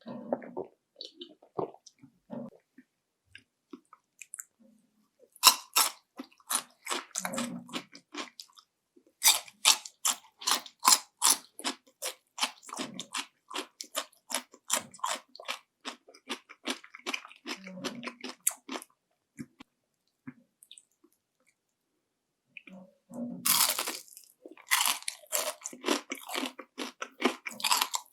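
Crunching and chewing of panko-breaded fried shrimp. A crisp bite comes about five seconds in, followed by a long run of rapid crunchy chews. After a short quiet pause, another loud crunching bite comes near the end, and the chewing starts again.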